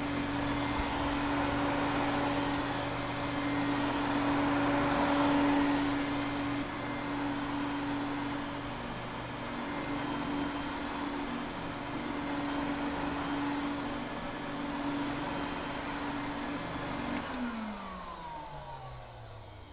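Vacuum cleaner motor running steadily with a hum and airy rush. Near the end it is switched off, and its pitch falls as the motor spins down.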